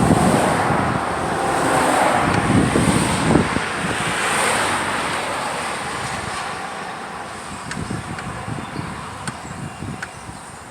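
Wind buffeting the microphone during a bike ride, over a broad rushing noise like passing traffic that is loudest in the first few seconds and then gradually fades.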